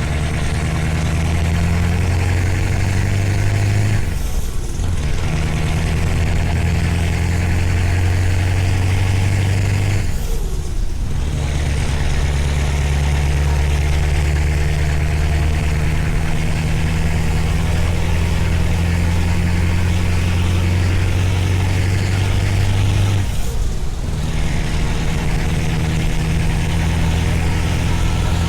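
Scania V8 truck engine with an open exhaust pipe running under load, a loud, steady deep note. The note breaks off briefly three times, at about 4, 10 and 23 seconds, and then comes back at a changed pitch, as it does at gear changes.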